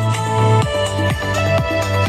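Electronic dance music played through a JBL Pulse 4 Bluetooth speaker: a steady deep bass line and held synth notes, with a kick drum about twice a second.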